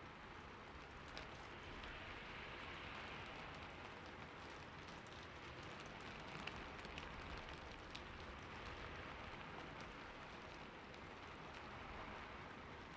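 Rain falling steadily on a roof: an even hiss with scattered sharp hits from single drops, swelling a little now and then.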